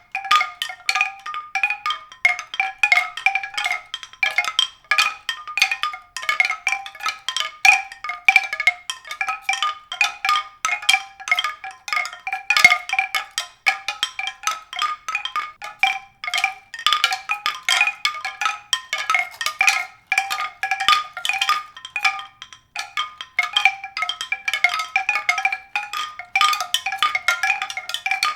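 Continuous mallet-percussion music: quick, bell-like struck notes on a small set of recurring pitches, played without a break.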